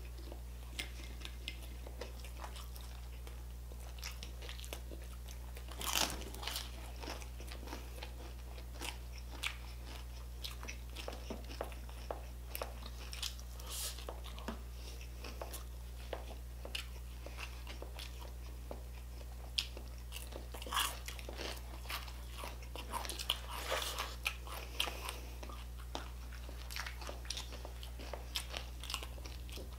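Close-up eating sounds of crispy pata (deep-fried pork knuckle) and rice: crunching bites and chewing in scattered clusters, busiest about six seconds in and again past the middle. A faint steady low hum runs underneath.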